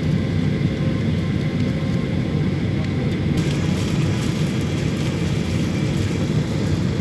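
Steady noise of a Garuda Indonesia Boeing 737-800 jet airliner's engines and rushing air, heard from inside the cabin, heaviest in the low range. About three and a half seconds in, more hiss joins in the upper range.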